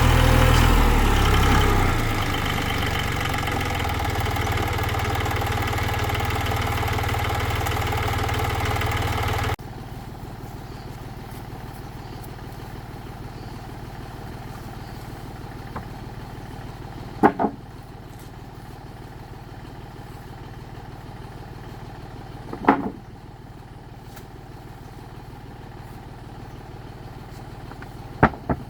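Tractor engine running loudly, then easing to a steady idle about two seconds in. The sound then cuts off abruptly to a quieter low engine hum, with three sharp knocks spaced several seconds apart.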